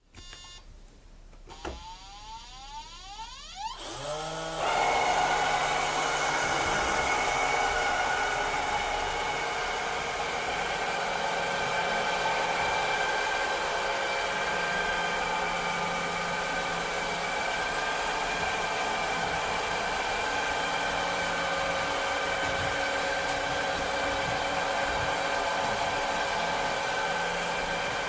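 Cleaning robot's motor spinning up with a rising whine over the first few seconds, then running steadily with an even whir and hiss.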